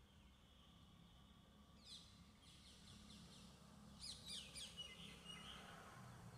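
Faint bird chirps over near-silent room tone: a quick series of short falling chirps about two seconds in, and another around four to five seconds in.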